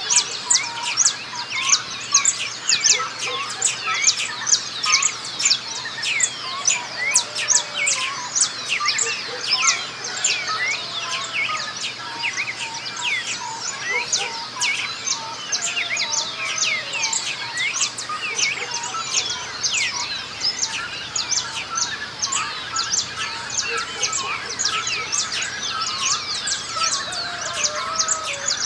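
A dawn chorus of many birds singing and chirping at once, dense overlapping calls throughout, with a few lower whistled notes now and then.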